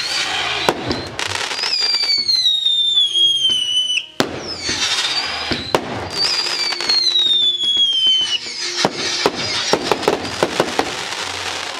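Fireworks going off: repeated bangs and dense crackling, with two long falling whistles, over music.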